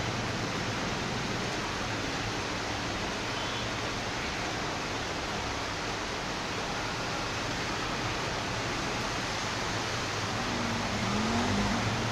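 Steady rain falling, an even hiss that swells slightly near the end.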